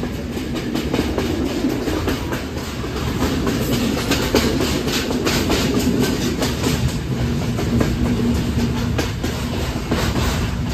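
Yal Devi passenger train running along the track, heard from on board: a steady low rumble with the irregular clatter and clicking of wheels over the rails. A steady hum comes and goes from about seven seconds in.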